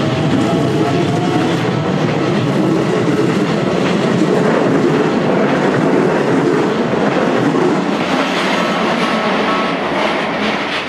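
Electric commuter train passing over the level crossing, its wheels clattering over the rail joints in a steady loud running noise that eases a little near the end.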